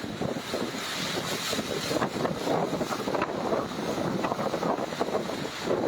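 Typhoon-force wind blowing hard in uneven gusts and buffeting the microphone, with heavy rain.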